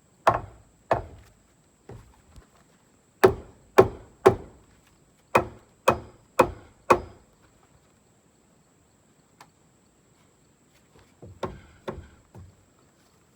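Hatchet blows chopping into a log to cut a notch: a run of sharp wooden strikes in quick groups, then a pause and a few lighter knocks near the end.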